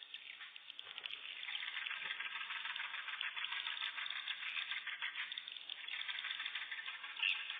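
A dense chorus of swiftlets chirping and twittering, a continuous rattling mass of rapid calls with one louder call near the end.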